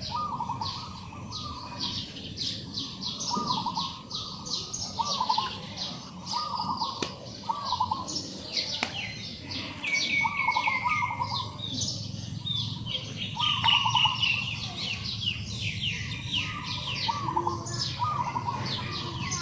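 A flock of small birds chirping, with quick falling chirps crowding over one another, and beneath them a short wavy lower call repeating every second or two.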